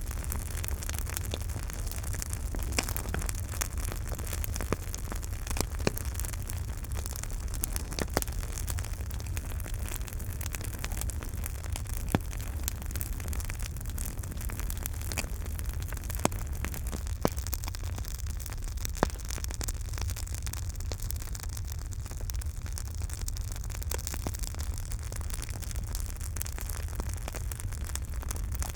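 Wood campfire crackling, with sharp pops scattered irregularly throughout and a handful louder than the rest, over a steady low rumble and hiss.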